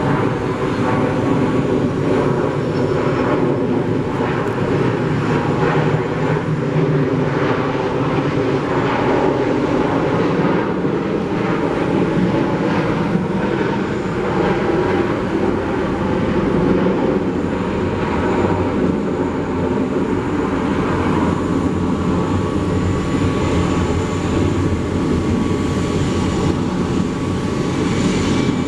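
Airliner jet engines running, a loud steady noise with no clear rise or fall.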